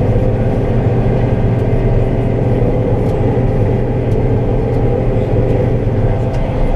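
Diesel engine of farm harvest machinery running steadily at a constant speed, with a strong low hum.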